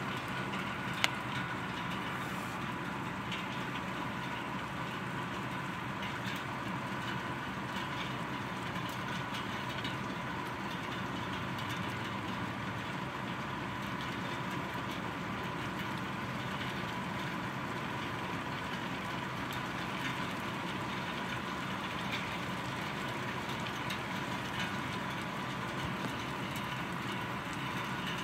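Heavy rain falling steadily, with a faint steady hum beneath it and a single sharp click about a second in.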